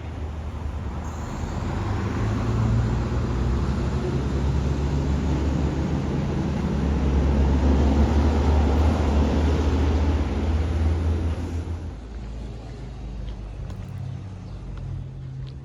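Diesel engine of a Volvo Xpeditor rear-loader trash truck running hard with a deep, steady drone that grows louder towards the middle, then drops to a quieter, lower idle about twelve seconds in.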